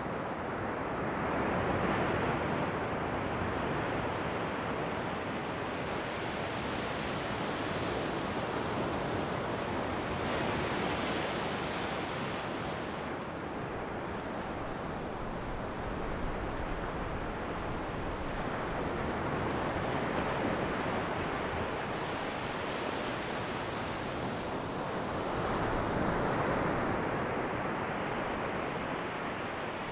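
Ocean waves breaking and washing up the shore, a steady surf hiss that swells with each wave about every eight seconds.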